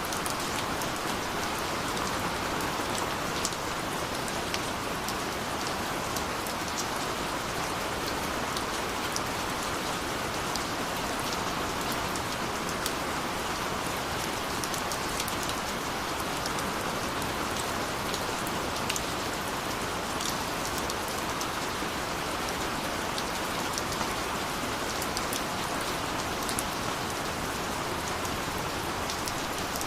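Steady rain falling, an even hiss with scattered tiny drop ticks.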